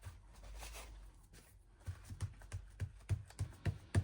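Paper and card being handled on a craft table, with a run of soft taps, about three or four a second, starting about two seconds in.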